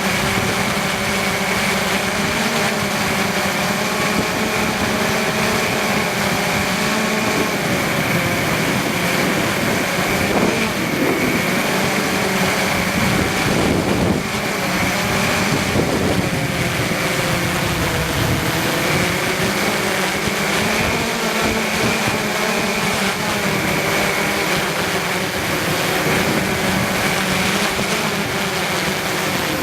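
Multirotor camera copter's electric motors and propellers humming in flight, their pitch wavering up and down as the motors keep adjusting speed, with an uneven low rumble of wind underneath.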